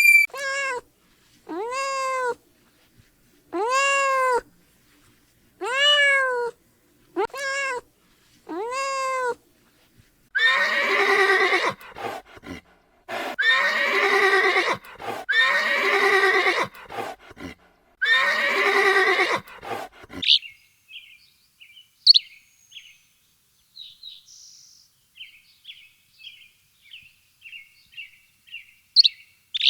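A run of animal calls: about six short arching cries in the first third, then four longer, harsher calls, then soft quick chirping from about two-thirds in.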